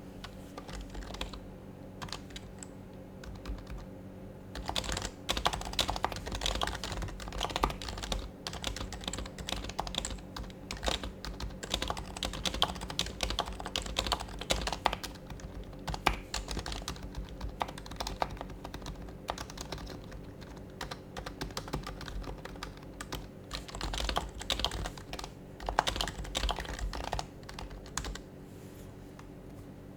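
Typing on an HHKB Professional HYBRID Type-S keyboard, its silenced Topre capacitive switches giving soft muted thocks. A few scattered keystrokes give way to fast, continuous typing about five seconds in, with brief pauses, stopping shortly before the end. A faint steady hum runs underneath.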